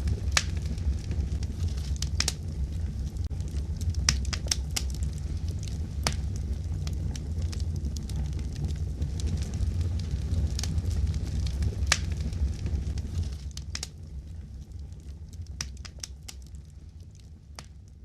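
Fireplace crackling: scattered sharp pops and snaps over a steady low rumble of burning, fading out over the last few seconds.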